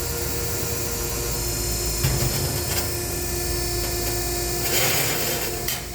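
Cardboard baler running a compression cycle: its motor and hydraulic pump hum steadily as the ram presses the cardboard down. There are a couple of sharp knocks about two seconds in, and a short rush of noise with a few clicks near the end.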